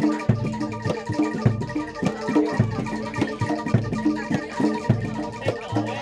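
Javanese gamelan music accompanying kuda lumping: drum strokes and ringing metallophone notes in a steady rhythm, about three strokes a second, over low sustained tones.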